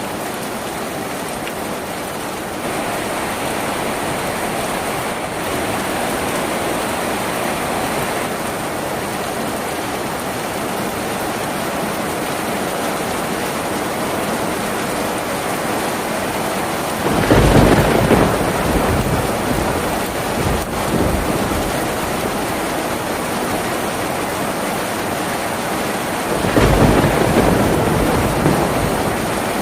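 Steady heavy rain drumming on a tin roof, with two rolls of thunder: a loud low rumble about halfway through and another near the end.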